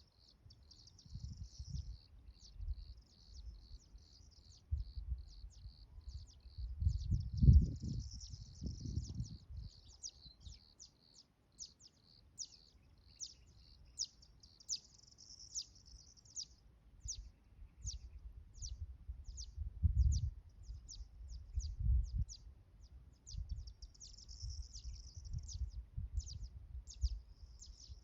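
Small songbirds chirping and twittering: rapid series of short, high notes with occasional fuller trilling runs. Low rumbles come and go beneath them, loudest about 7 seconds in and twice around 20 seconds.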